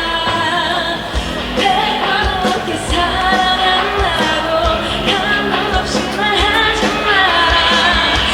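Live pop-rock song with a woman singing over a full band and a steady drum beat, heard loud and in the open air.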